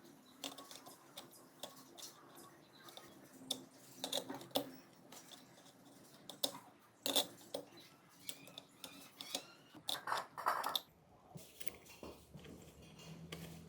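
Scattered small metal clicks and clinks, like hand tools and small engine parts being picked up, set down and fitted, with no steady running sound.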